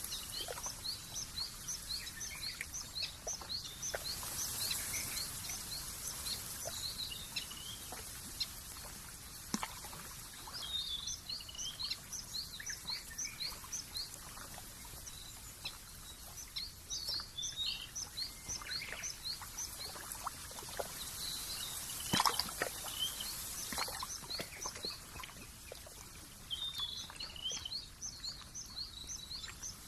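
Small bird singing bouts of rapid, high chirps repeated several times a second, a new bout every few seconds, over a steady high hiss of open-country ambience.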